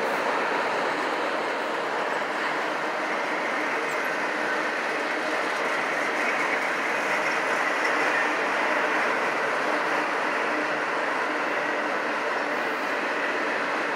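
Norfolk Southern freight train's autorack cars rolling past, a steady, even noise of steel wheels on the rails.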